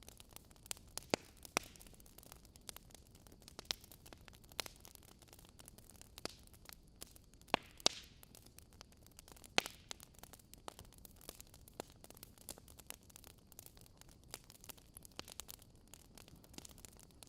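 Wood fire burning in a fireplace: irregular crackles and sharp snaps over a soft, steady hiss.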